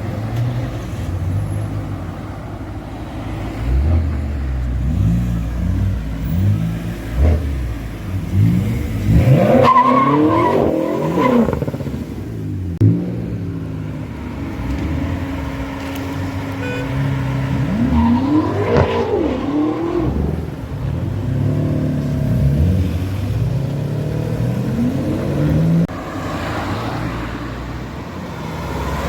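BMW M5 F10's twin-turbo V8, through an Akrapovic exhaust, revving and accelerating in several pulls, its pitch rising and falling; the loudest pulls come about ten and nineteen seconds in. A single sharp crack sounds about thirteen seconds in.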